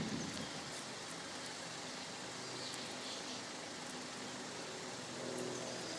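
Steady outdoor background noise of faint road traffic, with a low engine hum coming in about five seconds in.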